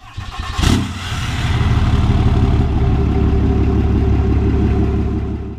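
1982 Chevy K20's 6.2 litre Detroit Diesel V8 running loudly, with a sharp burst about half a second in, then running steadily until it stops abruptly near the end.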